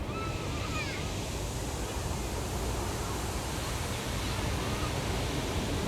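Ocean surf washing steadily on the shore, with wind on the microphone and faint distant voices. A few short, high chirps come in within the first second.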